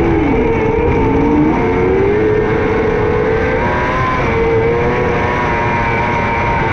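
600cc micro sprint car engine running at racing speed on a dirt oval, its pitch dipping and climbing again several times as the throttle is lifted and reapplied through the corners.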